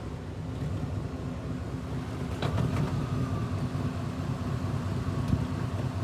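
Four-wheel-drive truck engine running under load as the truck tries to get moving in snow, getting a little louder about two and a half seconds in, with a couple of brief knocks. The tires lack traction.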